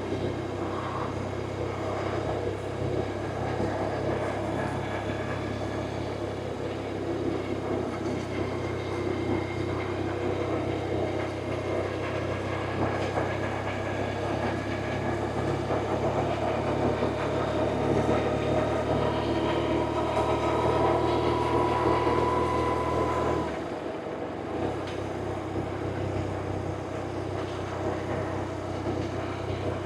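BMW R1100RT's flat-twin boxer engine running steadily on the move. A faint whine climbs slowly in pitch and drops away about three-quarters of the way through.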